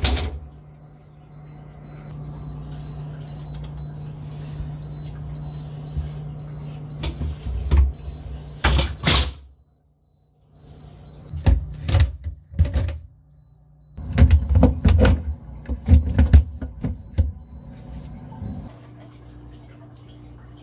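Knocks and clatter of jars and food containers being handled and set down, in several bursts, over a steady low hum. A faint, high, intermittent beeping tone sounds through most of it, and the sound cuts out briefly near the middle.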